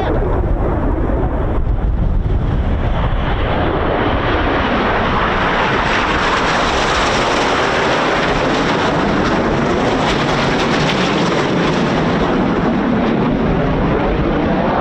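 Jet noise from the Red Arrows' BAE Hawk T1 jets passing in a display: a dense roar swells to a peak about halfway and then eases away. Wind buffets the microphone as a low rumble, strongest early on.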